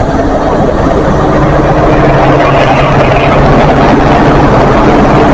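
Rear Class 43 power car of a GWR High Speed Train passing at close range: its diesel engine running under power with a steady low note over wheel and rail noise, growing a little louder as the power car draws level.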